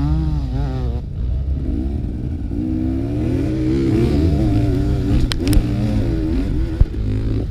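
Enduro motorcycle engine revving up and down as the throttle is opened and closed, with two sharp clicks about five and a half seconds in and a short thump near the end.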